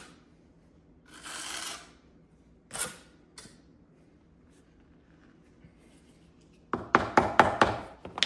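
Tile adhesive being scraped off a stone facing with a hand tool, a single click, then a quick run of about six sharp knocks near the end as the stone piece is worked into place.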